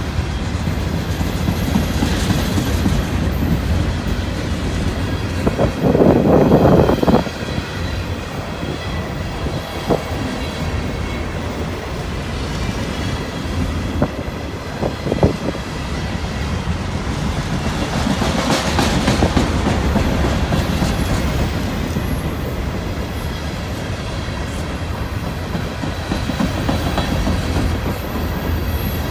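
Freight train cars rolling past, wheels clicking over the rail joints, with a steady low rumble and a brief louder burst about six seconds in.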